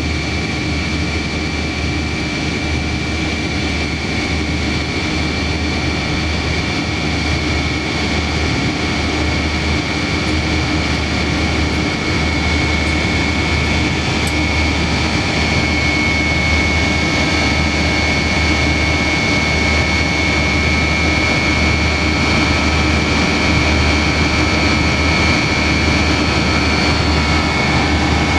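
Yak-42D airliner's Lotarev D-36 turbofan engines heard from inside the passenger cabin: steady engine noise with a high, steady whine, growing slightly louder.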